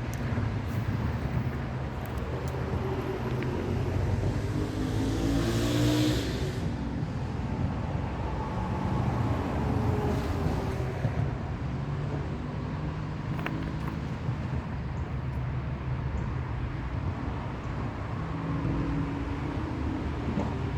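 Road traffic passing, a continuous low rumble with engine tones that rise and fall as vehicles go by.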